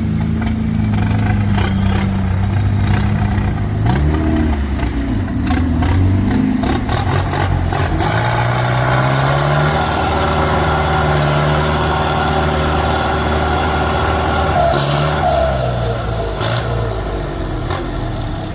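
Heavy diesel engines revving under load as tractors work to pull a stuck truck out of mud, their pitch stepping up and down. A high whistle rises about eight seconds in and falls away near the end, and sharp clicks sound through the first half.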